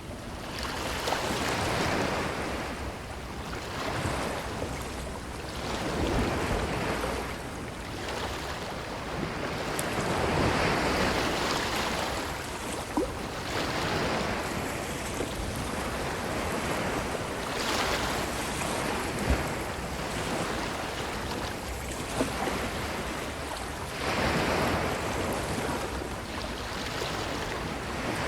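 Ocean waves breaking and washing up a beach, each swell of surf rising and falling away about every four seconds.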